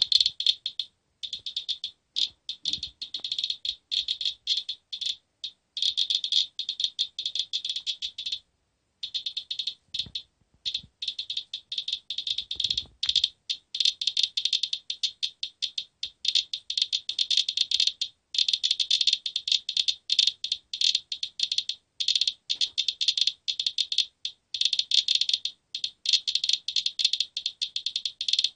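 Geiger counter clicking rapidly in a dense, irregular crackle, held close to a used furnace filter: an elevated count from the dust the filter has caught.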